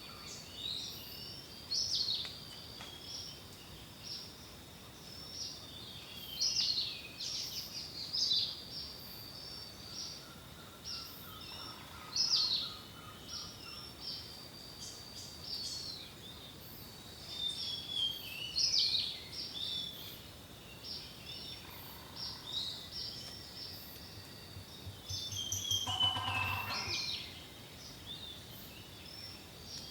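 Several songbirds singing: short chirps and whistled phrases over a steady high tone, with a louder, buzzier call near the end.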